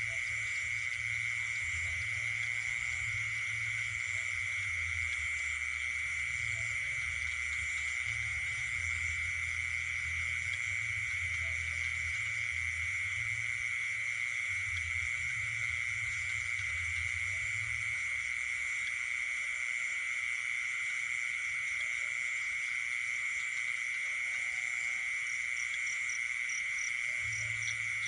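Night chorus of frogs and insects: a continuous high-pitched insect trill with frogs calling underneath.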